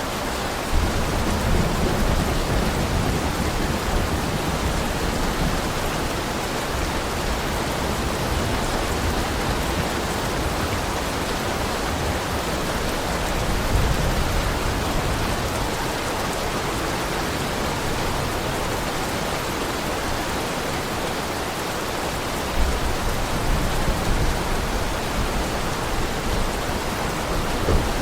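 Heavy rain falling steadily, a dense, even hiss. Low rumbling swells come about a second in, around the middle, and again near the end.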